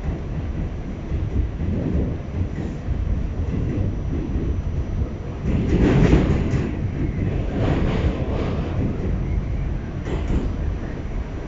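New York City subway D train running along the track: a steady rumble of wheels on rail, with a few louder clanks, the loudest about six seconds in.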